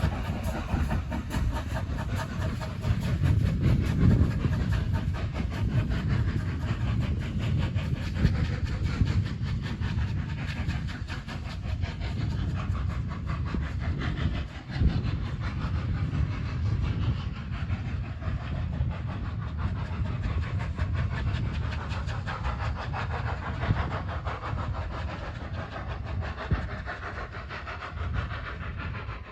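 A train running on the rails: a steady rumble with the rattle of wheels over the track, one sharp knock about halfway through, easing off slightly near the end.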